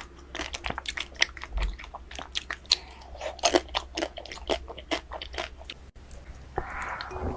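Ice cream being eaten: rapid crisp crunching bites and chewing. A brief break comes about six seconds in, and a soft hiss follows near the end.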